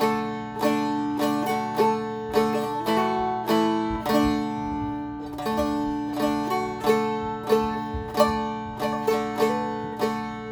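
Seagull Merlin M4, a four-string diatonic stick dulcimer, flatpicked in D. A simple melody of sharply plucked notes, roughly two a second, rings over steady drone strings.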